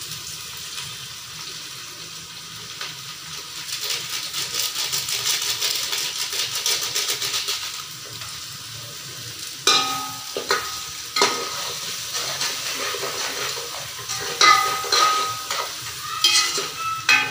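Onions and spices sizzling in hot oil in a metal cooking pot, crackling more busily for a few seconds in the middle. From about ten seconds in, a metal ladle stirs the masala, knocking and clinking against the pot's sides.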